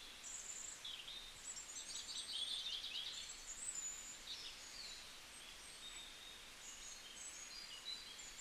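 Birds chirping and twittering, short high notes and slurred calls scattered throughout, with a fast rattling trill, the loudest sound, from about a second and a half to three seconds in, over a faint steady hiss of outdoor background.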